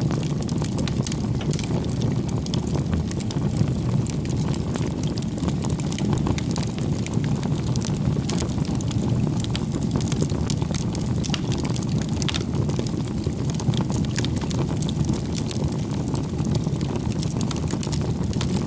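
Wood campfire burning: a steady low rush of flames with frequent small crackles and pops from the burning wood.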